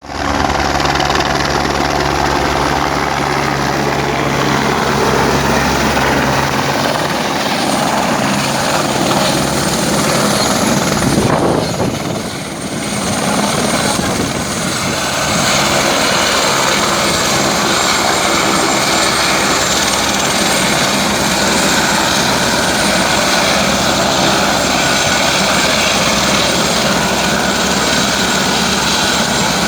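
Helicopter running nearby, a loud steady rush of rotor and turbine noise. A low throb in the first seven seconds fades out, and the sound dips briefly about 12 seconds in.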